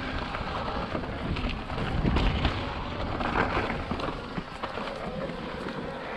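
Wind buffeting the action camera's microphone while a mountain bike rolls over slickrock, with a steady tyre rumble and scattered small knocks from the bike.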